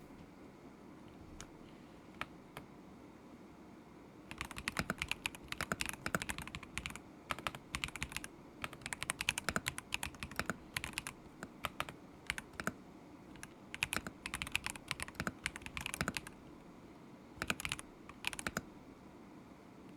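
Typing on a KZZI K75 Pro mechanical keyboard with Moment linear switches: a few lone keystrokes, then quick runs of keystrokes from about four seconds in, stopping and starting in short bursts, with two brief runs near the end.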